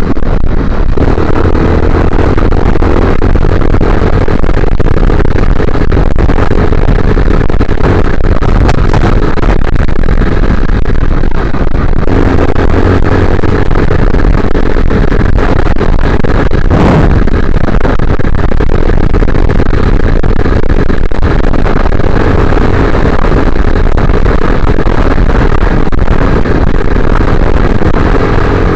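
Motorcycle engine running steadily while riding, with heavy wind and road rumble on the microphone and a single sharp knock about seventeen seconds in.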